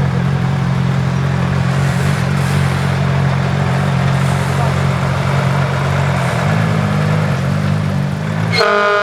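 Heavy truck engine running with a steady low rumble, rising briefly in a short rev about six seconds in. Near the end, a loud multi-tone truck air horn starts sounding.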